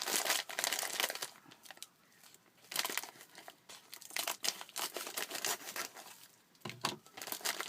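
A pack of plaster wrap being opened: its packaging crinkling and tearing in irregular bursts of crackling, with brief pauses between handlings.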